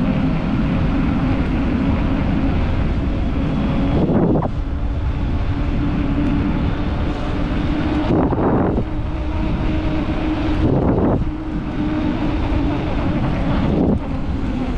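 Motorcycle engine running steadily under wind noise on the microphone, with four brief falling sweeps in pitch a few seconds apart.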